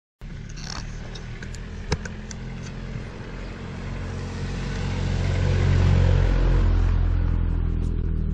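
A motor vehicle's engine hum that swells to its loudest about six seconds in and then eases off, as a passing car would. There is a sharp click about two seconds in.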